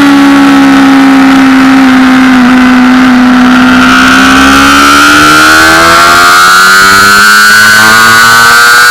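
Honda CBR600RR's inline-four engine running loud at high revs, heard from on board the bike. Its pitch eases slightly for the first few seconds, then climbs steadily as the bike accelerates hard in one gear.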